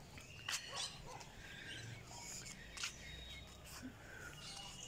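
Faint open-air ambience with scattered short bird chirps and a few sharp clicks.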